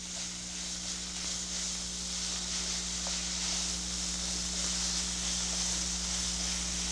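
Thin-sliced beef and onions sizzling in butter in a hot stainless frying pan as they are stirred with a wooden spoon: a steady hiss from the meat searing on high heat and starting to lose its raw colour. A steady low electrical hum runs underneath.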